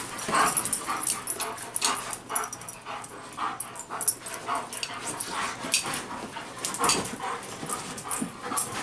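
A Siberian husky puppy and a German shepherd playing, with short, irregular dog vocalizations throughout.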